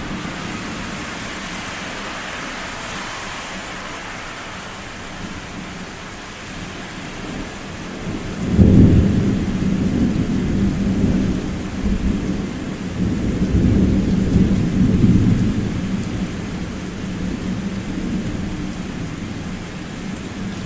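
Thunder during a steady rain: about eight seconds in, a sudden clap breaks into deep rolling rumbles that swell again a few seconds later before fading, with the hiss of rain throughout.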